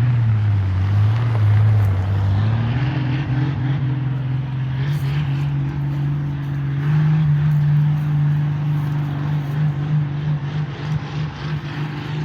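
An engine running steadily with a low hum; its pitch rises a little over the first few seconds, then holds.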